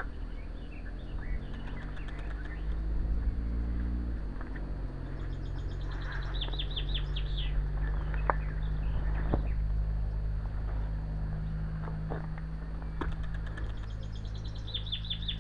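Songbird singing, twice, each a quick run of high repeated notes, over a steady low engine drone whose pitch drops about four seconds in. A few faint sharp clicks near the middle.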